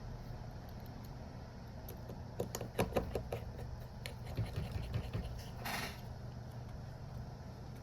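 Light clicks and scraping of small tools and parts being handled during a Redmi Note 7 battery replacement, over a steady low hum. A cluster of clicks comes a few seconds in, and a short hiss follows.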